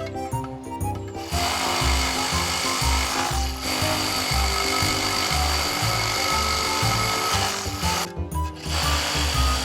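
Battery-powered saw cutting wood, a steady whining buzz that starts a little over a second in and breaks off briefly twice, over background music with a steady beat.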